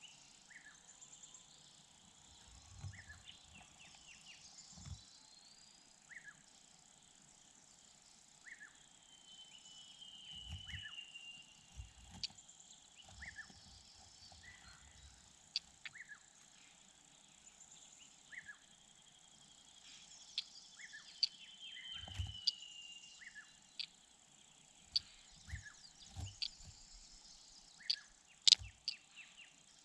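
Wild birds calling outdoors: a short high note repeats about once a second, and a longer falling whistle comes three times. Scattered sharp clicks and a few low thumps are mixed in.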